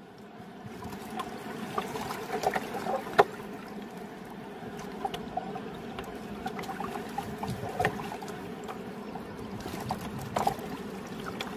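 Shallow river water trickling and sloshing around someone wading, with a few sharp clicks of river stones knocking together as they are lifted and turned over.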